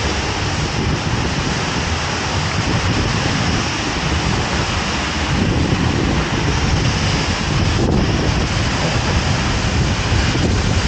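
Seljalandsfoss waterfall: falling water rushing in a loud, steady wash, with wind gusting on the microphone and growing a little louder about halfway through.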